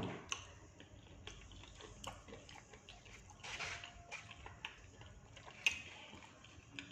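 Close-miked chewing and mouth sounds of someone eating batagor, fried fish dumplings with peanut sauce: irregular small wet clicks and crunches, with a soft thump at the start and a sharper click a little before the end.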